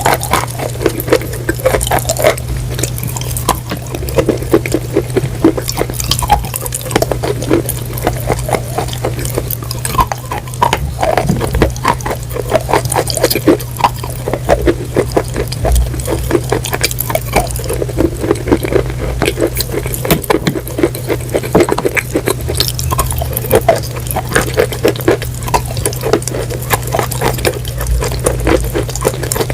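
Close-up chewing and crunching into a microphone: dense, irregular crackling crunches mixed with wet, squishy mouth sounds, over a steady low hum.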